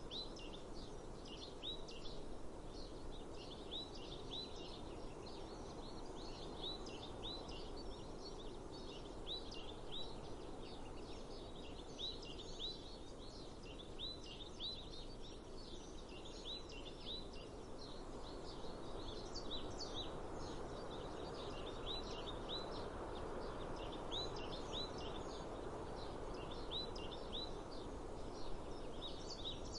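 Small birds chirping over and over in quick clusters of short notes, over a steady outdoor background hiss.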